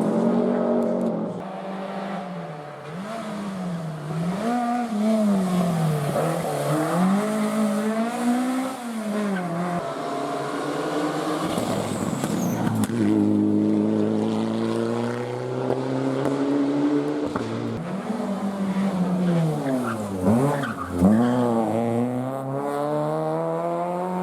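Rally car engines being driven hard on a stage, the engine note rising and dropping repeatedly through gear changes and lifts, with some tyre squeal.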